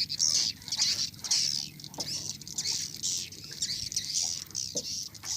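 A flock of swiftlets twittering overhead: many overlapping high, squeaky chirps in a continuous chatter.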